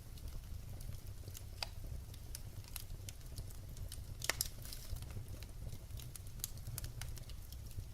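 Wood fire burning with a low steady rumble and irregular sharp crackles and pops, a louder cluster of pops about four seconds in.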